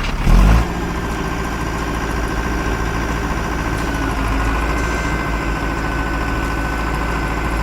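Heavy vehicle's diesel engine running steadily at low revs, with a loud low thump about half a second in.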